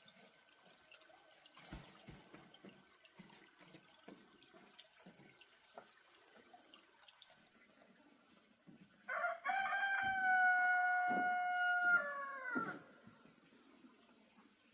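A rooster crowing once, a long held call that falls in pitch at its end, over faint scattered knocks.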